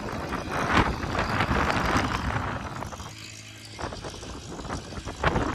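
Strong wind buffeting the microphone in a loud, gusting rush, easing about three seconds in.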